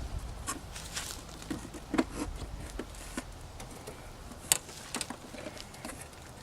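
Plastic clicks and knocks from handling a taillight housing and plugging its bulb sockets back in: scattered, irregular taps, the sharpest about two seconds in and again past four seconds.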